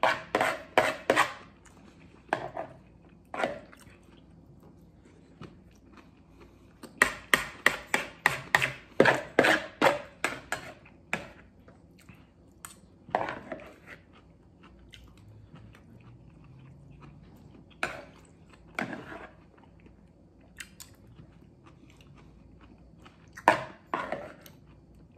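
A man chewing mouthfuls of food, in bursts of quick chews with pauses between; the longest burst comes about a third of the way in.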